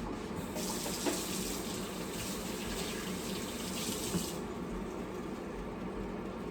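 Kitchen faucet running into the sink for about four seconds, then shut off, with a small knock near the start and another as it stops. A steady low hum runs underneath.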